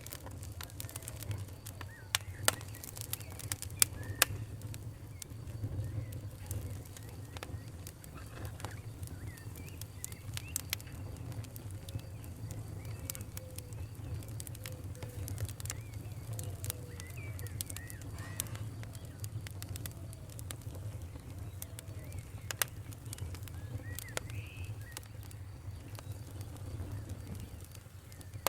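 Campfire crackling with sharp pops, a few loud ones in the first few seconds, over a steady low rumble, while birds chirp throughout.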